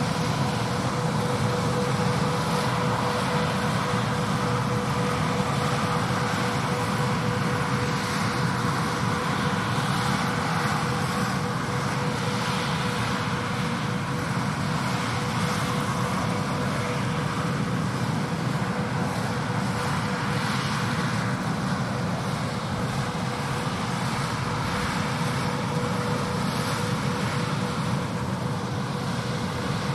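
Tractor-pulled six-row peanut pickers running in the field, a steady mechanical drone with a constant whine over it.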